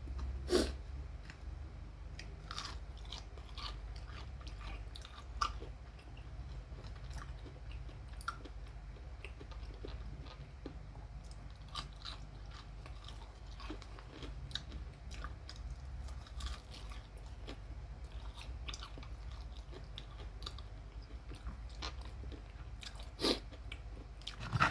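A person chewing crispy fried chicken close to the microphone, with scattered short crunches and bites over a low steady hum.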